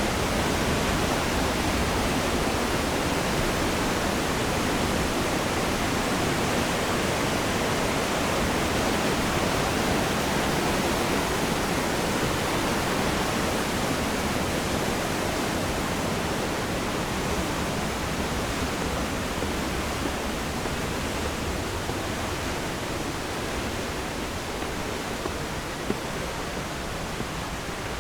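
Steady rushing of fast-flowing water, a dense even hiss with no let-up, easing slightly in level near the end.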